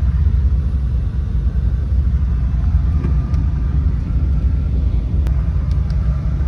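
Steady low rumble of a parked truck idling with its AC running, heard from inside the cab, with a few faint clicks.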